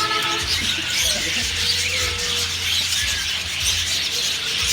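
Many caged budgerigars chattering together in a steady mass of small chirps and squawks.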